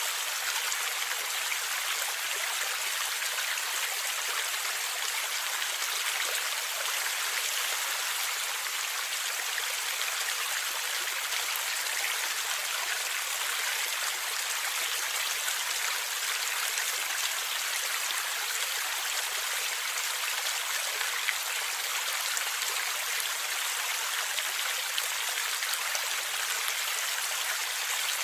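Forest river water flowing steadily and gurgling: an even, continuous rush that is strongest in the middle and upper range, with almost no deep rumble.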